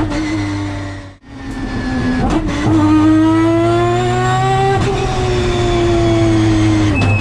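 Three-rotor peripheral-port 20B rotary engine of a race-prepped Mazda RX-7, heard from inside the car at high revs. The sound drops out briefly about a second in. Then the revs climb for about two seconds, ease off and fall slowly, and jump up sharply again near the end.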